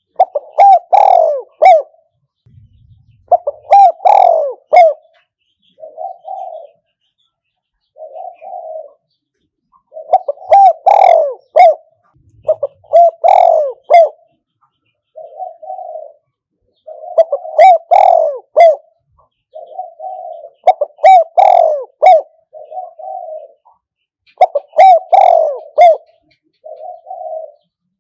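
A decoy spotted dove cooing: loud phrases of several coos about every three to four seconds, with softer, shorter coos between them.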